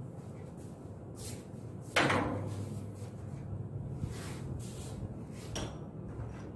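Handling noise: one sharp knock about two seconds in, with a short ringing tail, then a few faint clicks and rustles over a steady low hum.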